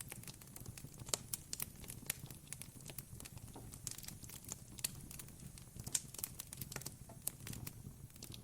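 Wood campfire crackling: irregular sharp pops and snaps, a few louder than the rest, over a low steady rumble of the burning fire.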